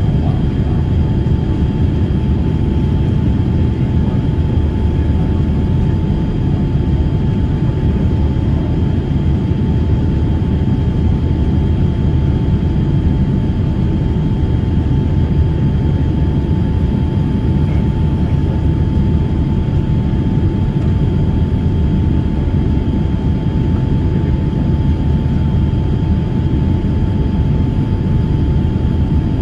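Steady low rumble of an airliner's engines and rushing air, heard inside the passenger cabin, with faint steady whines above it.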